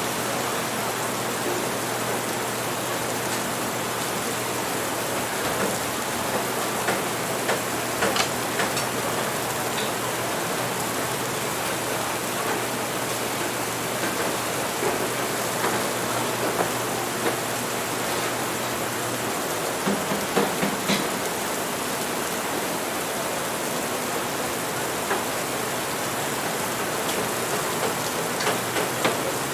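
Steady rain falling, an even hiss, with a few light clicks scattered through it. A low hum underneath stops about two-thirds of the way through.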